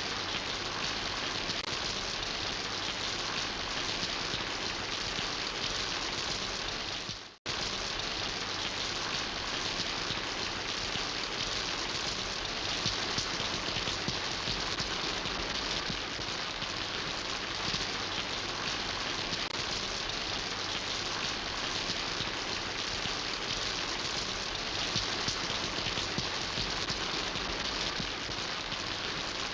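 Steady rain falling and pattering on surfaces. About seven seconds in it fades out to near silence for a moment, then cuts straight back in.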